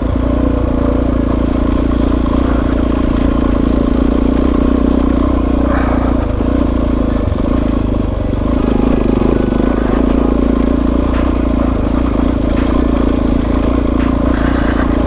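Suzuki DR-Z400S single-cylinder four-stroke engine running steadily while riding, easing off briefly about eight seconds in.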